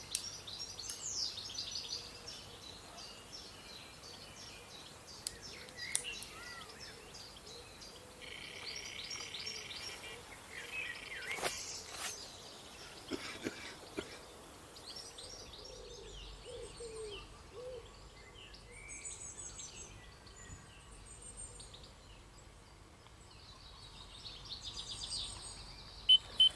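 Songbirds singing and chirping in waterside trees, many short calls and trills overlapping, with a few soft clicks and a sharp loud click at the very end.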